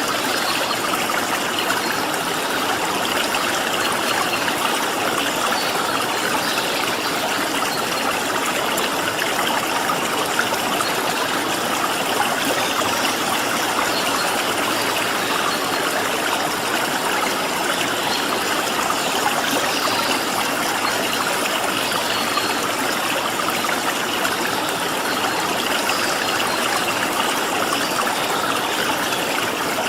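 Stream water flowing steadily, an even rushing trickle, with a few faint high bird chirps over it.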